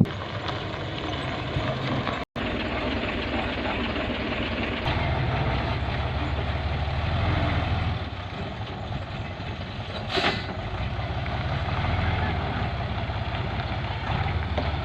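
Diesel dump truck engine running under load, its low rumble swelling twice as it pulls harder and then easing off, with a short hiss about ten seconds in.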